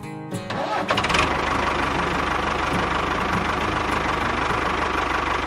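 A small engine starts up about a second in and runs steadily, with a rapid even pulsing beat.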